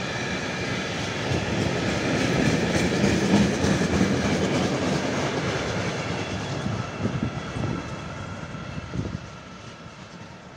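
Freight train of tank wagons rolling past close by, wheels clattering over the rail joints with a faint high ringing from the wheels on the rails. It is loudest a few seconds in, and after the last wagon passes about nine seconds in the sound drops away and fades as the train moves off.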